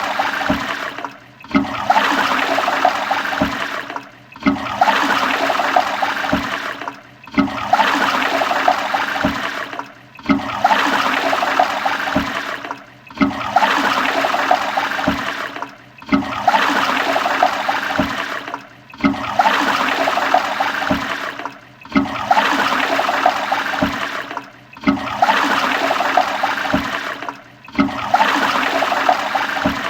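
Toilet flushing: a rush of water that starts suddenly and fades away, then cuts off. The same flush repeats about every three seconds, some ten times over.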